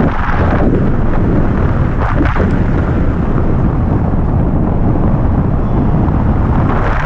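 Wind buffeting the microphone of a hang glider in flight: a loud, steady rushing noise heaviest in the low end.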